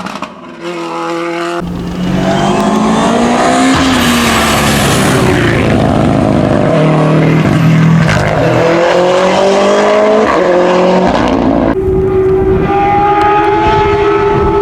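Hillclimb race car engines at high revs, the pitch climbing and dropping as the cars accelerate and shift gears. The sound changes abruptly twice, about two seconds in and near the end, as a different car is heard.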